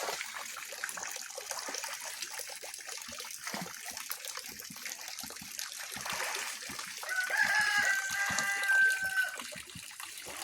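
A rooster crows once, a long call starting about seven seconds in, over continuous water splashing and trickling from the fish pond being cleaned.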